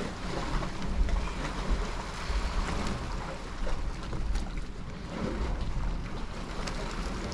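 Wind buffeting the microphone: a gusty, uneven rumble with a steady rushing hiss over it.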